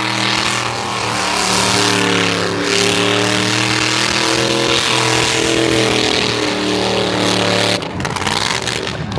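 Car engine held at high revs, its pitch wavering up and down, cutting off abruptly near the end.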